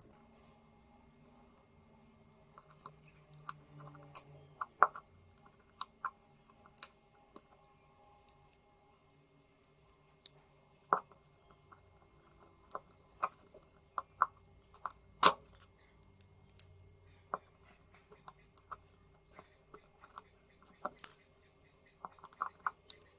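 Irregular sharp clicks and taps of small tools and parts being handled while a phone is repaired, some of them in quick clusters, over a faint steady hum.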